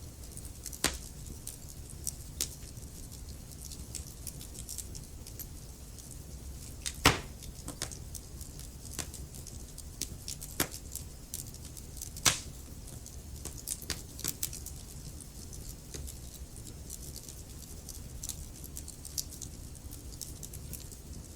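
Wood fire in a fireplace crackling, with irregular sharp pops and snaps over a low steady rumble of the flames; two loud pops stand out, about seven and twelve seconds in.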